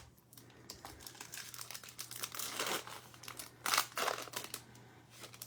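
Crinkling and tearing of a trading-card pack wrapper as it is torn open, with two louder crackling surges near the middle and about two-thirds of the way through.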